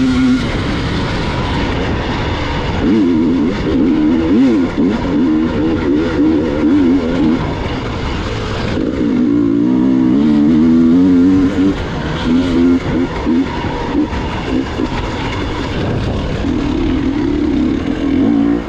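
Gas Gas EX 300 two-stroke enduro motorcycle engine being ridden, its pitch rising and falling as the throttle opens and closes, over a steady rushing noise.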